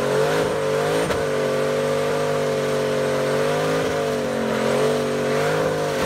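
Car engine held at high revs during a tyre-smoking burnout, its pitch wavering slightly up and down over the noise of the spinning tyres.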